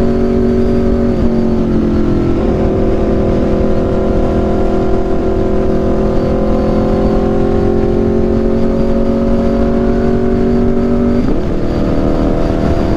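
Aprilia RSV4's V4 engine through an SC-Project CRT exhaust, running steadily at highway speed with wind rushing over the microphone. The engine pitch steps down about a second in, again a second later, and once more near the end, then climbs slowly.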